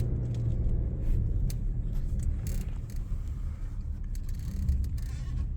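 Car running with a steady low rumble, with a few faint clicks and brief hisses over it.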